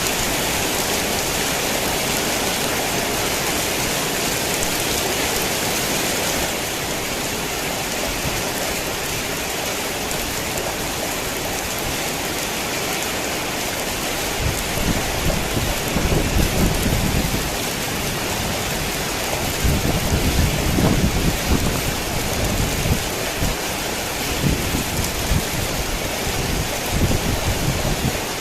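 Heavy rain falling steadily. Low thunder rumbles roll in about halfway through and again over the last third.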